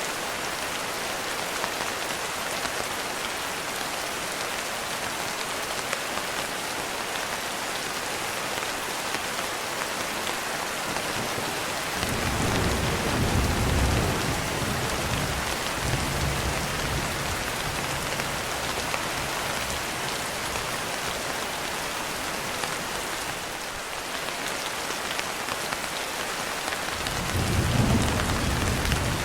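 Steady rain falling, with thunder rumbling low twice: once starting about twelve seconds in and lasting several seconds, and again near the end.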